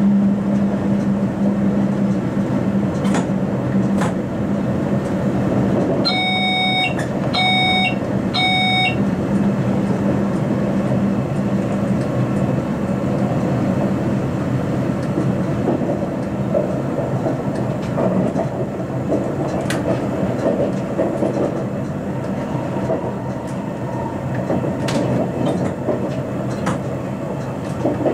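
SBB RBDe 560 'Domino' commuter train heard from its driver's cab while running along the line: a steady rumble of wheels and traction gear, with a hum that fades after a few seconds and a few sharp clicks from the track. About six seconds in, an electronic cab tone beeps three times.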